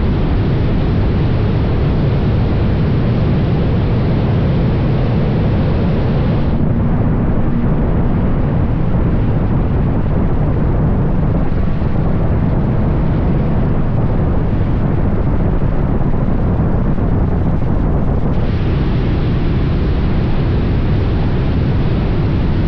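Motorcycle on the move: a steady, loud rush of wind on the microphone over the engine and road noise.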